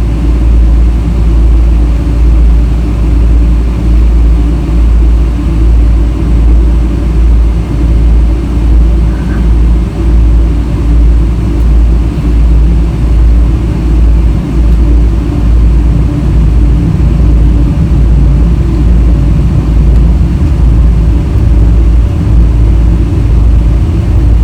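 Loud, steady low rumble of a Boeing 777-300 heard from inside the cabin: engine and airframe noise that wavers slightly without letting up.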